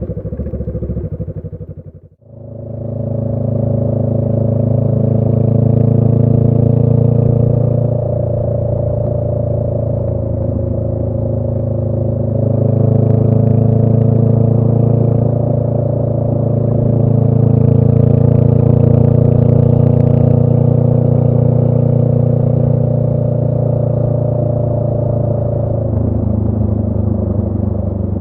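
A 2018 Honda Rebel 500's 471 cc parallel-twin engine runs through a Radiant Cycles Shorty GP aftermarket exhaust at a steady cruise. The pitch rises and falls only slightly with the throttle. The sound cuts out briefly about two seconds in.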